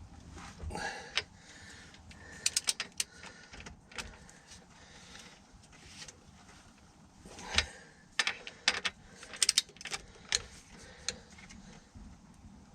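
Several short bursts of quick ratcheting clicks with light metal clatter, from hand tools being worked while bolts on an engine are tightened.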